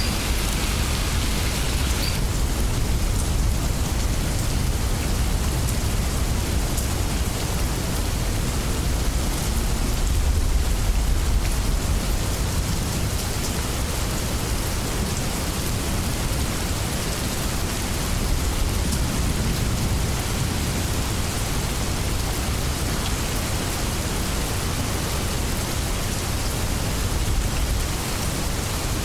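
Steady heavy rainstorm hiss with a low thunder rumble underneath, swelling a little now and then. A brighter layer of the hiss drops away about two seconds in.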